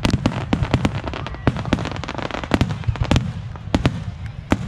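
Aerial fireworks shells bursting in quick succession: about a dozen sharp bangs in under five seconds over a continuous low rumble, spacing out toward the end.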